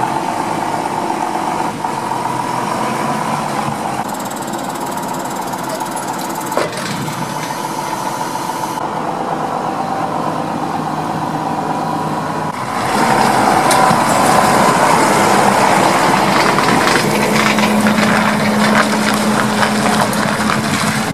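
John Deere 6910 tractor's six-cylinder diesel engine running steadily, getting louder about two-thirds of the way through.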